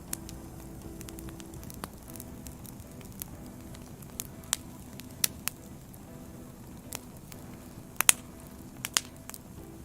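Burning firewood crackling: a low steady hiss with scattered sharp pops, the loudest two close together about eight seconds in.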